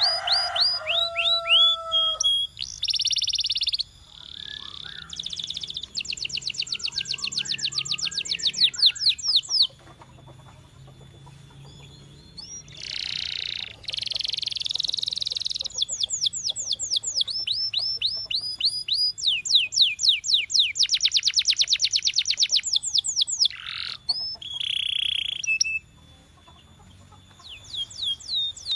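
Canary singing a long song of rapid trills, fast runs of repeated sweeping whistles and buzzy rolls, broken by a couple of short quieter pauses.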